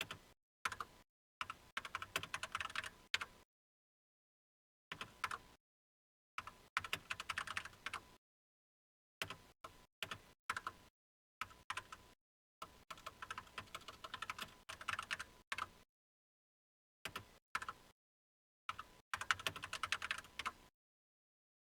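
Typing on a computer keyboard in short bursts of rapid key clicks, with pauses of a second or two between bursts.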